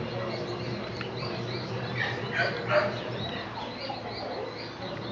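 Birds chirping in short repeated calls, with a louder cluster of three calls about halfway through, over a steady low hum.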